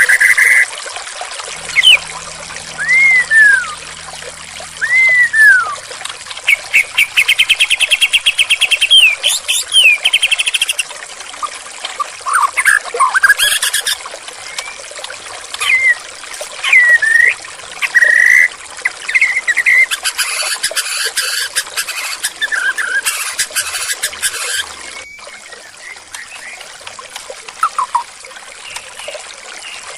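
White-rumped shama (murai batu) singing a varied run of loud whistles, arching slurred notes and fast trills over a steady trickle of running water. The song thins out in the last few seconds, leaving mostly the water.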